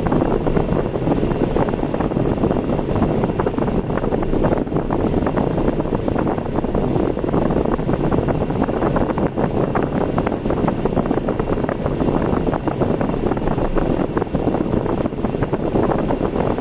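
A car driving on the road: steady road and wind noise.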